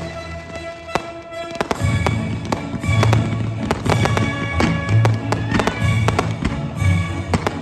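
Fireworks going off in quick succession, sharp bangs and crackles, over background music.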